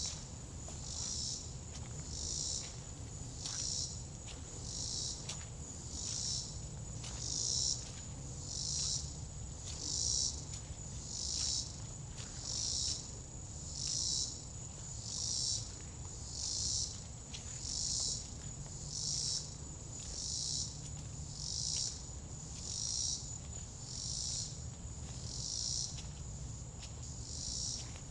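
Insects calling: a steady high-pitched trill, overlaid by a louder buzzing pulse that repeats evenly, about once every second and a quarter.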